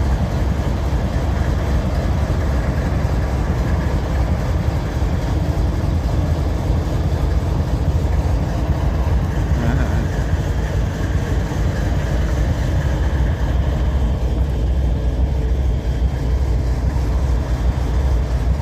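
Diesel-electric freight locomotive idling with a steady low rumble.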